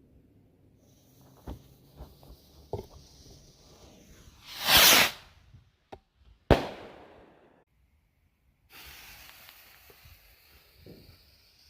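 Fireworks going off: a few small cracks, then a loud rushing whoosh lasting about a second, then a single sharp bang that rings away. A faint steady hiss follows near the end.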